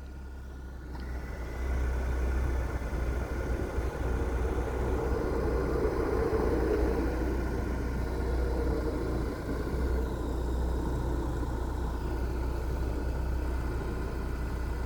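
A car running steadily, a low engine rumble with road noise that grows louder about a second and a half in.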